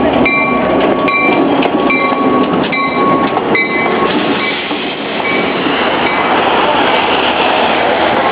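Passenger train arriving, its cars rolling past with a steady rumble. Through the first half a short ringing tone repeats about every 0.8 s, then stops.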